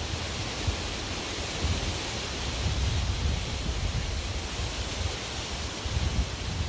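Strong wind blowing: a steady rushing hiss with irregular low rumbling gusts.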